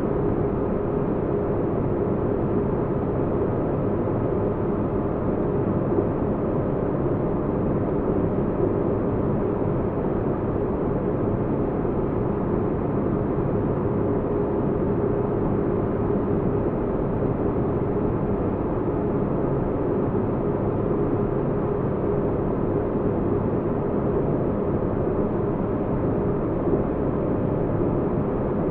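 Steady, deep rumbling spaceship-cabin ambience: a constant low noise bed with a faint steady hum, unchanging throughout.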